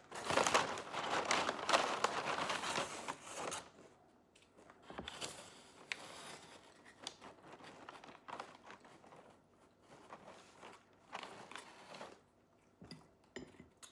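Plastic food packaging crinkling loudly for a few seconds, then softer scattered rustles and crunches of eating.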